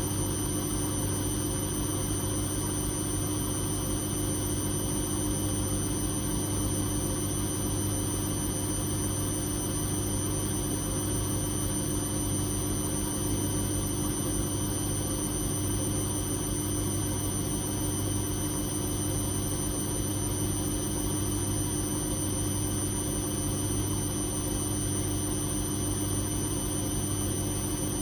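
Whirlpool Indiana 1400 washing machine running, with a steady motor hum and whine and a slow, even pulsing in the low hum.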